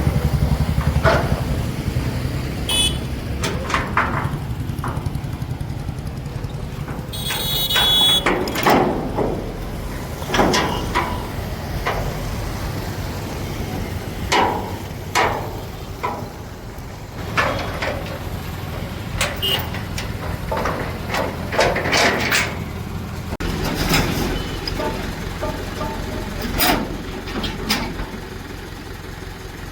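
Heavy diesel engine running steadily while a thresher is unloaded by crane, with irregular metal clanks and knocks over it and a brief high screech about eight seconds in.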